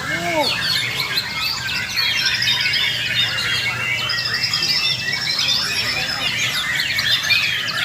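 Several white-rumped shamas (murai batu) singing at once, a dense chorus of overlapping quick whistles, trills and chatters, with a low steady hum underneath.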